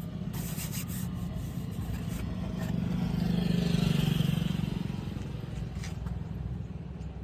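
A motor vehicle running with road noise, a steady low hum that swells louder around the middle and then eases back. Some scraping and rubbing of something handled close by.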